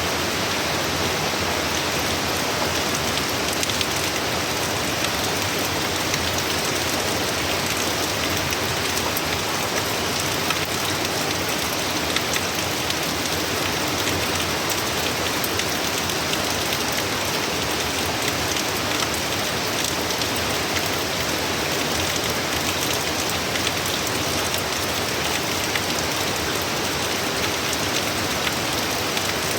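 Heavy hurricane rain pouring steadily, a dense even hiss of drops striking surfaces.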